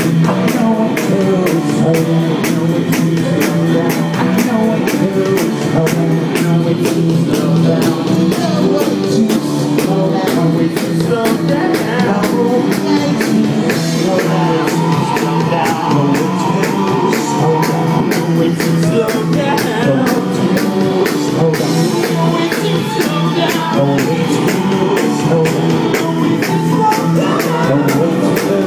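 Live rock band playing at full volume with no lead vocal, drums keeping a fast, steady beat under sustained guitar and keyboard notes.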